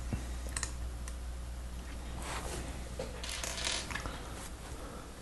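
Faint small clicks and rustles of plastic LEGO Technic parts being handled and fitted together, in a few short clusters over a steady low hum.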